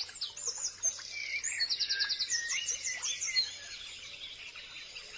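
Several birds singing and calling at once, with whistled gliding phrases and quick runs of repeated notes, busiest in the first three seconds and thinning to a softer chorus after.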